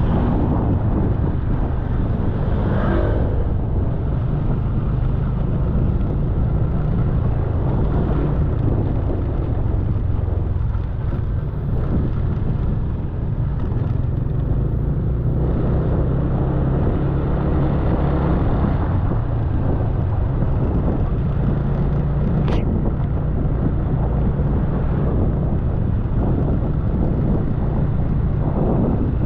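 Motor scooter engine running as it is ridden, with wind and road noise, its note rising and easing a little with the throttle. A brief sharp click comes about three-quarters of the way through.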